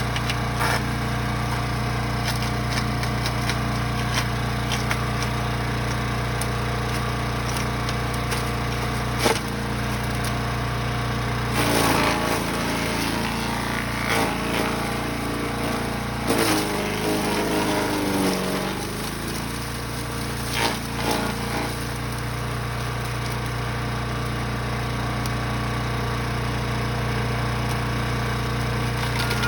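Small gasoline engine of a Brush Master 3-in-1 wood chipper/shredder running steadily, with scattered knocks and cracks of wood going through it. About twelve seconds in, the engine pitch wavers and sags for several seconds as it takes a heavier load, then recovers to its steady speed.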